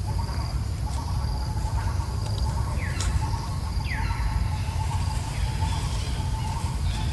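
Outdoor ambience: a steady low rumble, with short downward-sweeping animal calls repeating from about three seconds in over a faint steady chirring.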